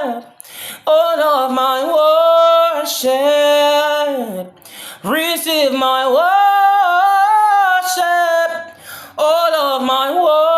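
A single voice singing a worship song unaccompanied, in long held notes that bend in pitch, with three phrases and short breaths between them.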